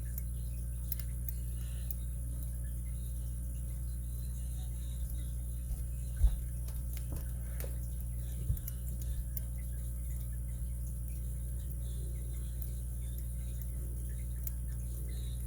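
Faint small ticks of a pick and tension wrench working the pin stack of a Master 930/950 padlock, over a steady low hum, with two short louder knocks about six and eight and a half seconds in.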